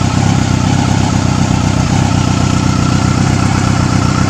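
Yamaha R6 inline-four motorcycle engine running at idle, a steady drone. The idle is erratic and the bike stalls when blipped, a carburettor problem that the mechanic suspects is just carb synchronisation.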